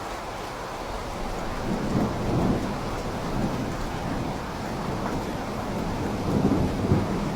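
Steady rain with rolling thunder rumbling low underneath, building about two seconds in and swelling again near the end.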